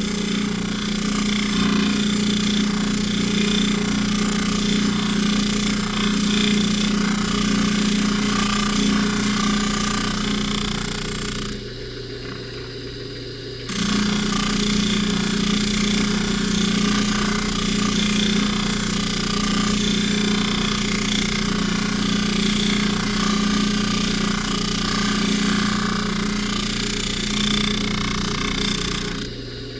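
Low-speed variable buffer running, its polishing wheel rubbing against a necklace chain in a steady hum and hiss. The louder rubbing stops for about two seconds around the middle and again near the end, while the motor's fainter hum goes on.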